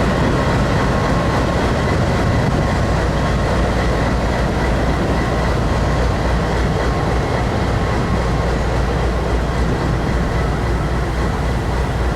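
Canadian Pacific freight train rolling slowly past through floodwater over the track, a steady low rumble with faint steady high tones.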